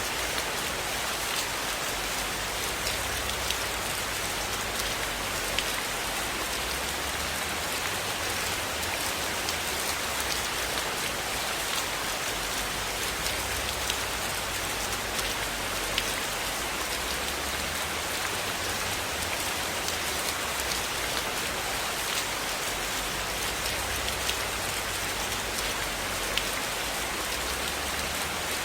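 Steady rainfall, an even hiss of rain on a surface, with scattered short sharp ticks from individual drops or crackles.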